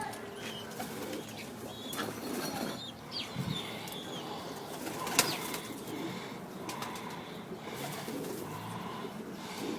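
Pigeons cooing, with wing flaps and a few sharp knocks scattered through.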